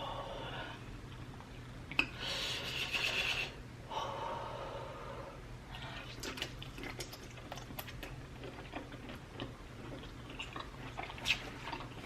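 A person chewing and eating spicy prawns at close range, with wet smacking and many small clicks. A loud breath about two seconds in lasts over a second.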